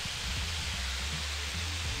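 Diced potatoes sizzling in bacon grease on a hot Blackstone flat-top griddle: a steady frying hiss. Background music with a low bass line plays underneath.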